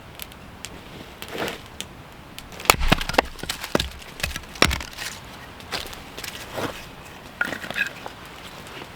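Dry wood cracking and snapping in a series of irregular sharp cracks, bunched together a few seconds in.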